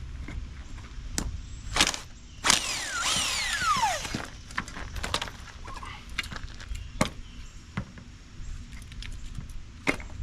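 Clicks, knocks and rattles of parts being handled while a household appliance is dismantled for scrap. A spun part whines briefly about two and a half seconds in, its pitch falling steadily as it winds down.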